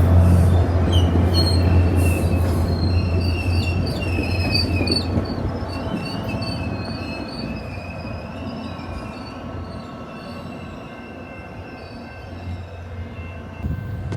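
Train passing and moving away, its wheels squealing on the rails in high wavering tones while its low rumble fades out over several seconds.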